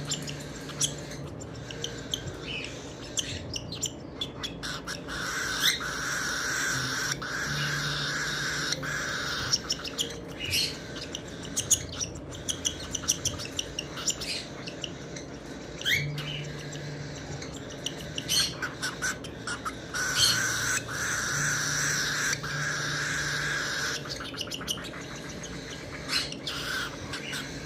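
Baby cockatiel's food-begging calls during feeding: repeated raspy cries, with two longer held stretches, mixed with short sharp clicks.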